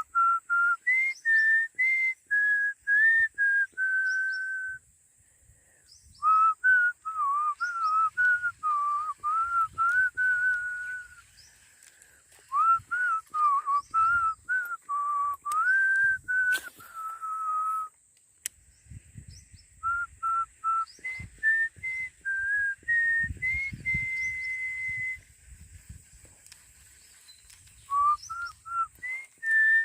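A person whistling a melody in phrases of short and held notes, with pauses between the phrases.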